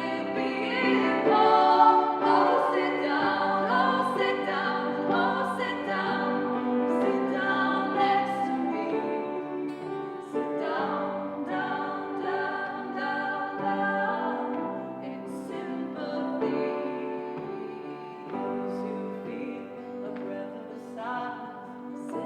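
Live acoustic song: women's voices singing in harmony over strummed acoustic guitars.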